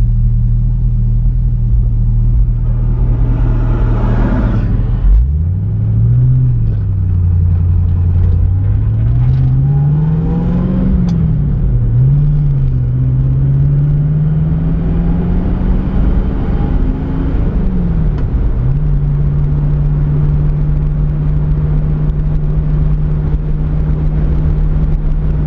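Pontiac Firebird engine idling steadily while another vehicle passes with a brief whoosh about four seconds in. The car then pulls away, engine pitch climbing and dropping back at each gear change, three times, before settling into a steady cruise.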